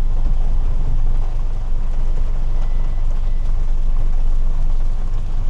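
Steady low rumble of car cabin noise with an even hiss over it, no distinct events.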